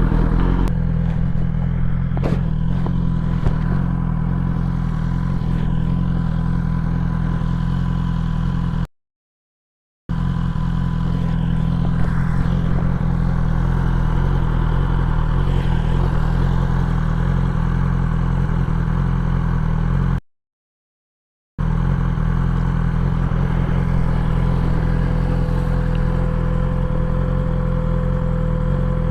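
BMW S1000XR's inline-four engine running steadily at an even pitch, with no revving. The sound cuts to silence twice for about a second.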